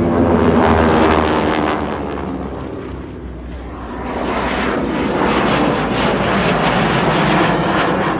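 Piston-engined propeller aircraft flying past with a steady engine drone. The sound eases off about three seconds in, then builds again.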